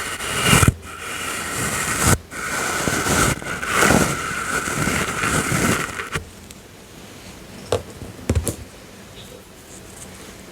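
Soft brush stroked across the microphone in several sweeping strokes, stopping about six seconds in; a few light taps follow.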